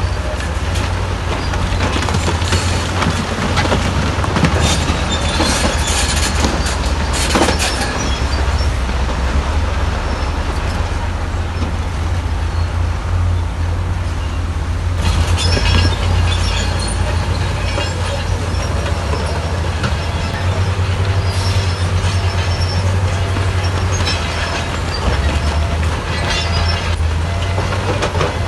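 Crawler bulldozer's diesel engine running under load with a steady deep rumble, while its steel tracks clank and squeal. Stretches of crackling clatter come and go over the engine.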